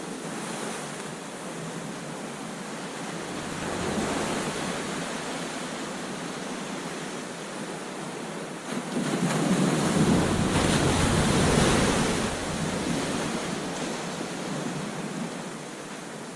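Ocean surf breaking on a beach: a steady wash of waves, with a smaller wave surging about four seconds in and a bigger wave crashing from about nine to twelve seconds before it recedes. Some wind rumble on the microphone.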